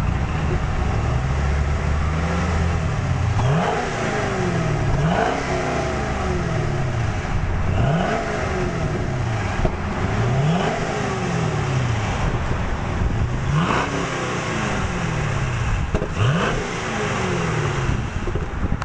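Supercharged 2010 Chevrolet Camaro SS 6.2-litre V8, heard through its exhaust before the Flowmaster cat-back is fitted. It is revved up in about six quick blips, and after each one the revs slide back down toward idle.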